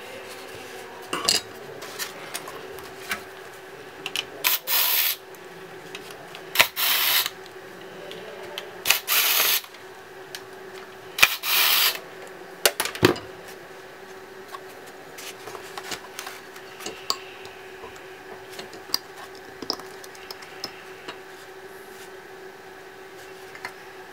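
Four short rubbing strokes about two seconds apart, with small clicks and taps of tools and parts in between, over a steady faint hum.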